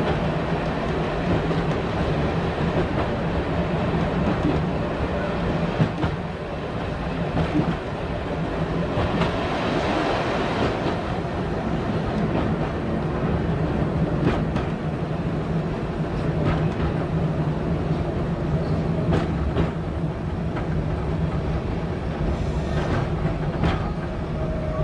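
Diesel multiple unit running along the branch line, heard from the front cab: a steady engine and running drone, with sharp clicks now and then from the wheels passing over rail joints.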